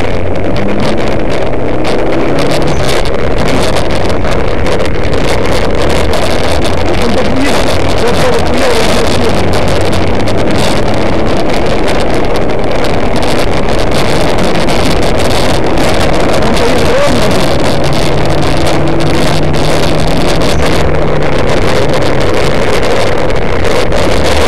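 Car engine running under load as the car drives across packed snow, heard from inside the cabin over steady tyre and wind noise. The engine note rises and falls as the throttle changes.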